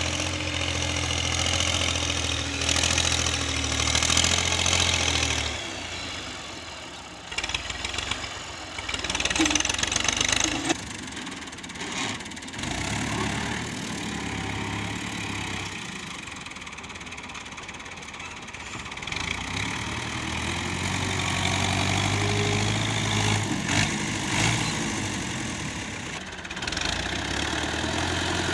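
Farm tractor's diesel engine running steadily, loud at first, falling back for a while, then loud again. A few sharp knocks and clatters come in the first half.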